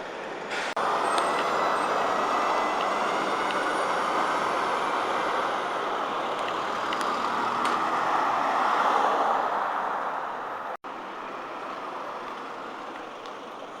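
Articulated diesel bus driving by. Steady engine and road noise starts suddenly about a second in, swells to a peak near nine seconds, then eases off, with faint high whining tones over it.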